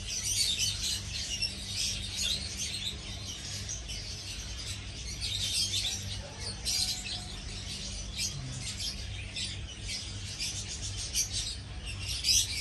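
A chorus of many small birds chirping and twittering without a break, with a low steady hum underneath.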